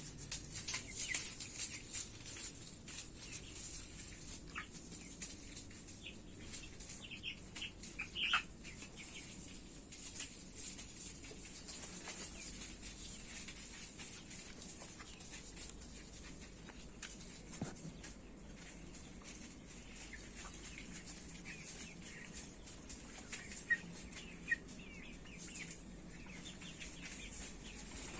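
A flock of broiler chickens clucking and calling in short, scattered notes over a steady high hiss.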